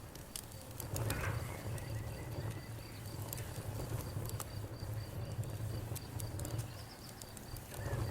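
Campfire burning: scattered sharp crackles and pops over a steady low rumble. An insect chirps in the background in an even, high-pitched pulse of about three chirps a second.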